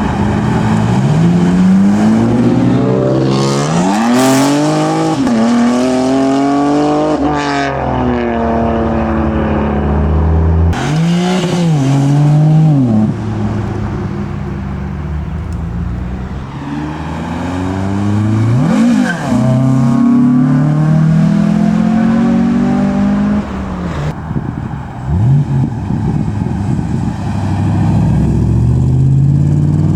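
Modified cars accelerating hard one after another, their engine notes climbing and dropping repeatedly through revs and gear changes, with a few short crackles in between.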